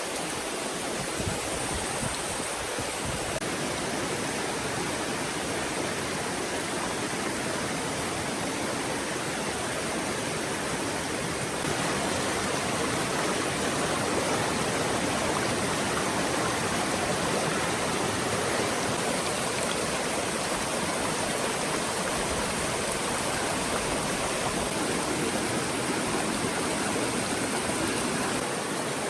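Stream water flowing and splashing in a steady rush, slightly louder from about twelve seconds in.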